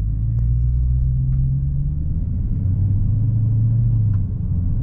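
Low engine drone and road noise inside the cabin of a 2022 Dodge Challenger SRT Hellcat, its supercharged 6.2-litre V8 running at an easy load during break-in. The engine note shifts a little lower about halfway through.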